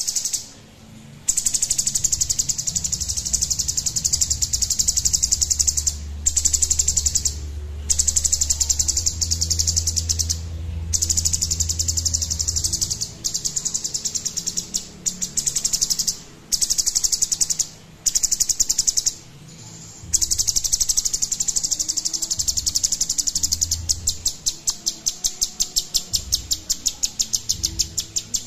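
Cucak cungkok, a bulbul, singing in long runs of rapid, dense chattering notes broken by short pauses. Near the end the song turns into a fast string of separate notes, several a second. A low hum runs underneath during the first half.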